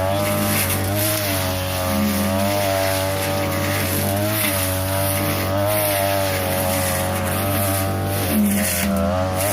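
42cc two-stroke brush cutter running steadily at high speed, its engine pitch wavering slightly up and down.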